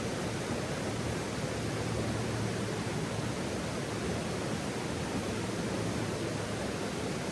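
Steady rushing noise, strongest in the low range, with no distinct crackles or pops.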